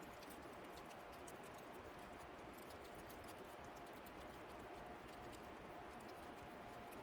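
Near silence: faint steady room tone with a low hum and scattered faint light ticks from small handling noises.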